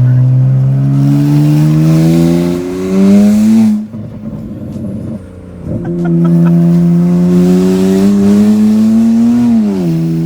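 Straight-piped BMW 335i's N54 twin-turbo inline-six, exhaust dumped right after catless downpipes, accelerating loud and raspy with rising pitch. About four seconds in the throttle cuts off suddenly with a rough crackle, then the engine pulls again with rising pitch and drops in revs near the end.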